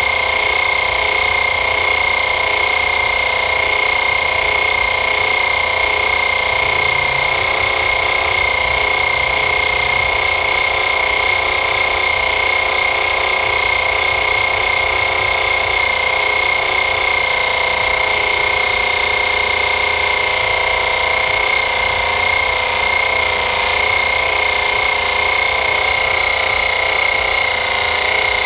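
Kensun YS-205 portable 12 V air compressor running steadily while inflating a car tire, a loud, even motor-and-piston drone with a high whine.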